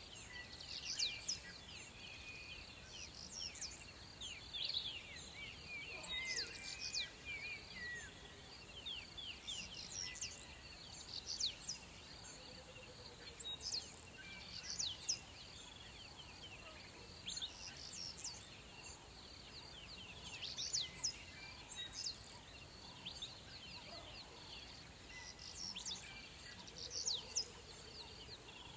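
Birds chirping and twittering all through, in many short, quick, falling notes, with a low wavering call heard a few times, about a second each, over a steady outdoor background.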